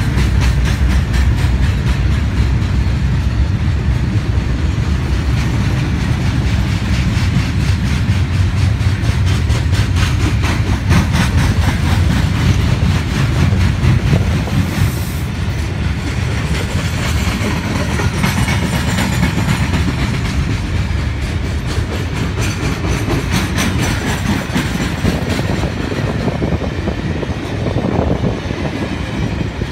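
Freight wagons of a long train rolling past close by: a steady low rumble with rapid clattering of steel wheels over the rail joints.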